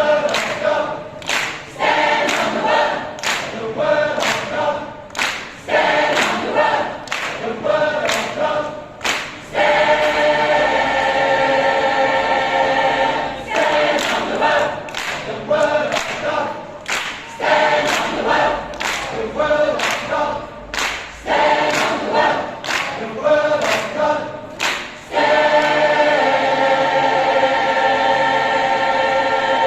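Choir singing, mostly a cappella, in short rhythmic phrases punctuated by sharp percussive clicks about twice a second, opening out into long held chords about ten seconds in, around fourteen seconds, and near the end.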